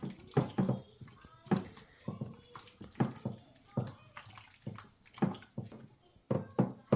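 Chicken pieces being mixed in a yogurt-and-spice marinade: a run of short wet squelches, about two a second.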